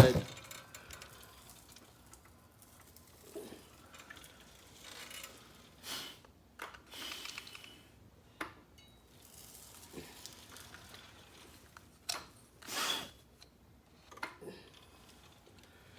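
Scattered light knocks, clicks and rustles of things being handled, about a dozen spread out with quiet gaps between, and a slightly longer scrape about 13 seconds in.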